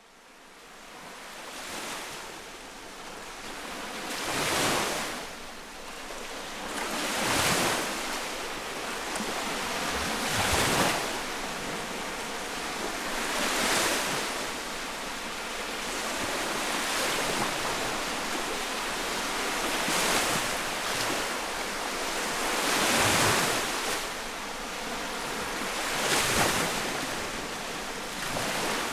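Lake waves washing onto the shore at close range, each one a rushing swell that comes about every three seconds. The sound fades in at the start.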